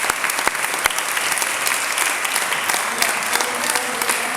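Audience applauding, a dense run of many hands clapping at a steady level.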